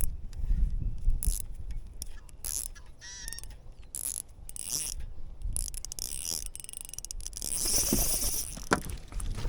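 Spinning reel clicking and ratcheting while a hooked trout is played, with wind rumbling on the microphone. A bird chirps briefly about three seconds in, and a steady high hiss builds near the end.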